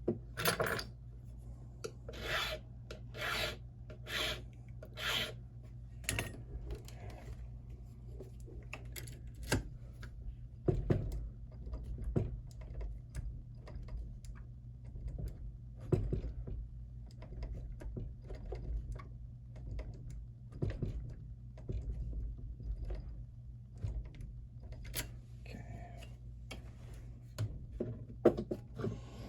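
A small hand file rasping across a brass key blank in short, even strokes, about one a second at first, then lighter, irregular strokes and clicks. It is filing down the cut marked at position 4, a stage in impressioning the lock's key.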